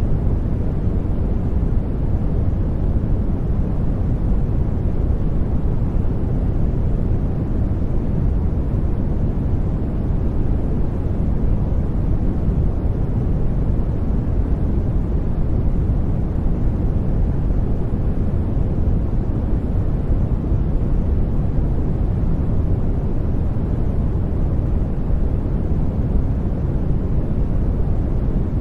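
Steady sleep-aid white noise: an even, unbroken rushing sound, deep and weighted to the low end with little hiss on top.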